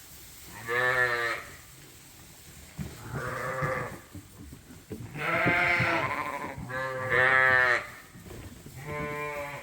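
Sheep bleating in a barn: about five wavering bleats, each about a second long, one after another.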